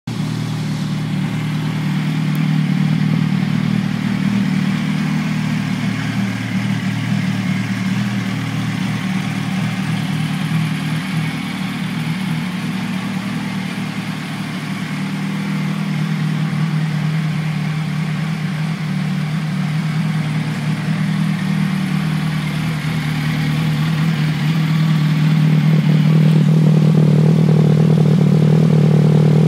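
Yamaha R1's inline-four engine idling steadily through a GPR aftermarket exhaust with its dB killer fitted. Near the end the exhaust note rises and grows louder as the revs are held a little higher.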